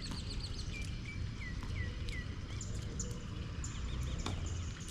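Small birds chirping, with runs of short repeated notes, over a steady low background rumble.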